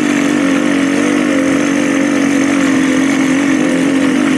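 Dirt bike engine running at a steady, slightly wavering pitch.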